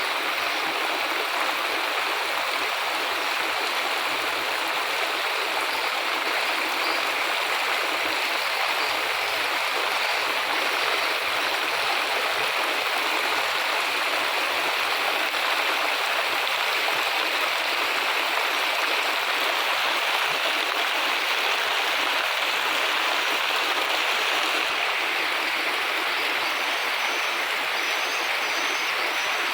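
Steady rain falling, an even unbroken rush of water.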